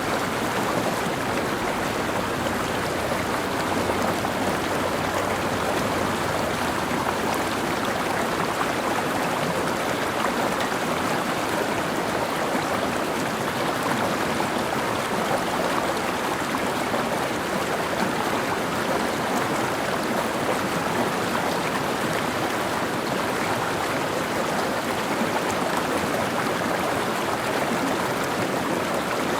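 Mountain stream flowing, a steady rushing of water over rocks.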